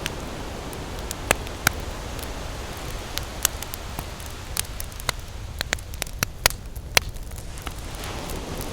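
Wood campfire crackling, with irregular sharp pops and snaps, over the steady rush of ocean waves breaking on a beach, which eases in the middle and swells again near the end.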